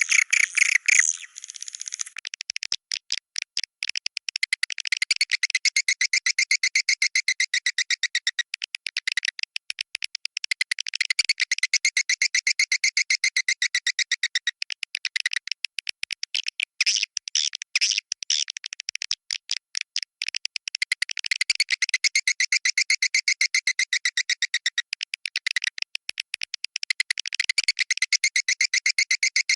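Swiftlet calls: fast trains of chirping clicks repeating many times a second in phrases of a few seconds, one running into the next.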